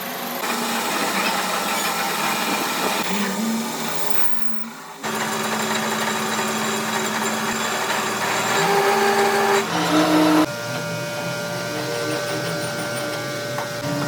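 Workshop power tools running steadily, in a run of short clips that cut abruptly from one machine sound to the next.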